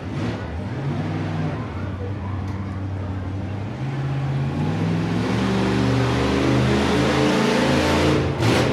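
Monster truck engine running and revving, rising in pitch and getting louder about four seconds in, with a loud burst of noise near the end.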